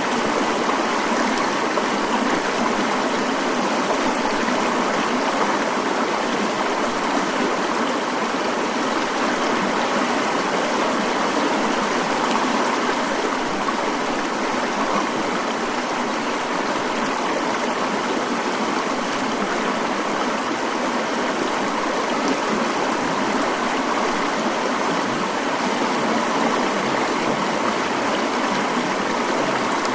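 Mountain stream water rushing steadily in a constant, even flow.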